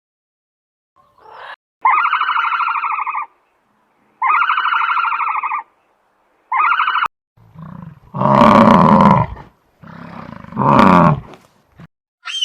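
Recorded animal calls: three buzzy, pitched calls in a row, then two louder, deep roars.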